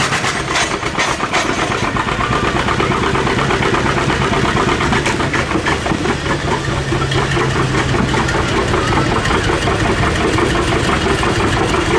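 Loud engine of a competition pulling vehicle running, with a fast, even, rattling firing beat.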